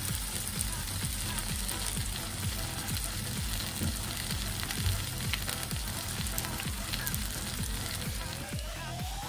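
Stuffed chicken breast frying in hot oil in a pan, with a steady sizzle.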